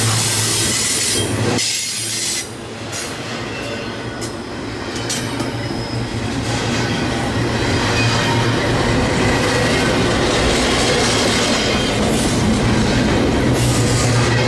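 Freight train rolling past: a continuous rumble and clatter of rail cars on the track with a steady low hum underneath. It dips briefly about two seconds in, then grows louder.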